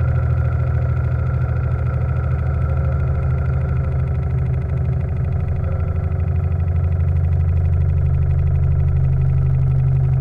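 A steam launch's gas-fired steam plant running steadily under way, a continuous low hum with no breaks.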